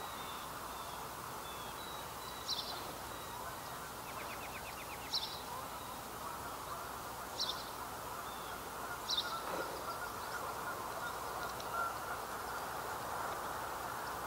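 Birds calling in the trees: short high calls about every two seconds, with a quick rapid trill about four and a half seconds in, over a steady faint background hiss.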